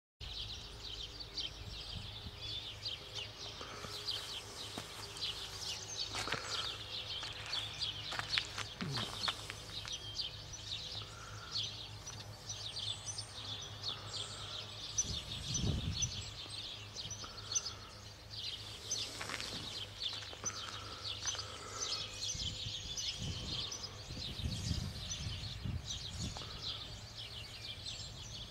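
Birds chirping densely and continuously, with a short call repeating every second or two, over a low rumble and a few soft thuds.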